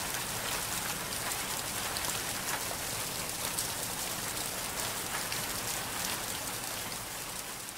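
Ambient rain sound effect: steady rainfall with scattered sharper drop ticks, beginning to fade out in the last second.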